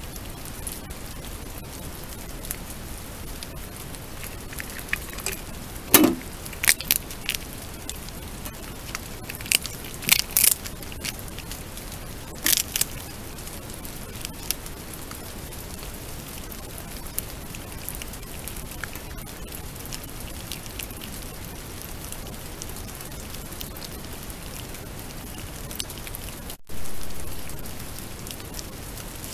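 Steady heavy rain falling, with a scattering of sharp clicks and knocks in the first half.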